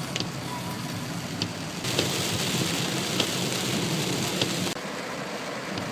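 Heavy rain falling steadily, with a few sharp single taps of drops striking nearby. It grows louder for a stretch in the middle.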